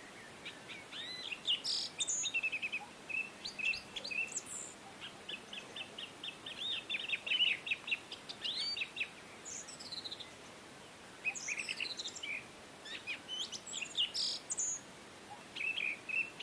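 Birds chirping and calling: rapid series of short chirps and quick falling whistles, over a faint steady hiss, with a short lull about two-thirds of the way through.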